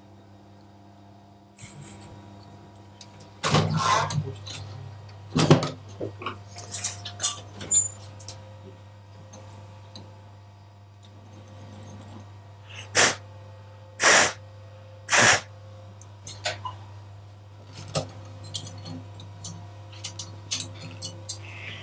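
Workshop machinery hums steadily under scattered clicks and knocks of tools and parts being handled, with three short, loud hisses about a second apart near the middle.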